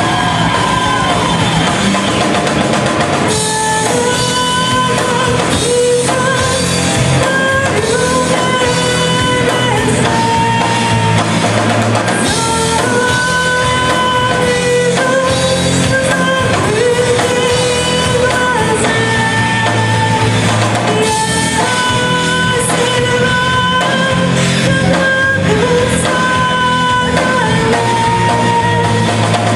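A rock band playing live: drums and bass under a melodic lead line that holds and slides between long notes, with no words sung.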